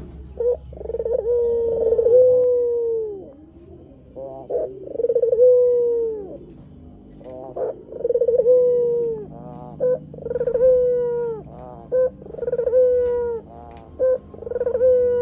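White Barbary dove (puter putih) cooing. It repeats a call of a short clipped note followed by a long drawn-out coo that falls in pitch at the end, about every two seconds, more regularly in the second half.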